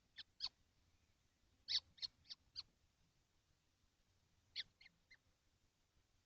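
Kestrels calling: three short series of high-pitched notes, spaced about a quarter second apart, the first series right at the start, the second, of four notes, a little under two seconds in, and the third, of three notes, near five seconds in.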